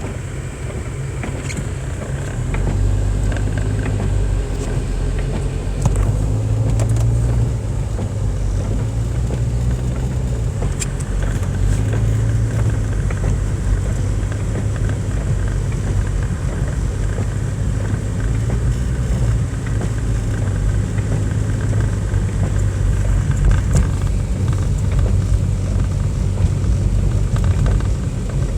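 Car cabin noise while driving: a steady low engine and road rumble that grows a little louder about two and a half seconds in.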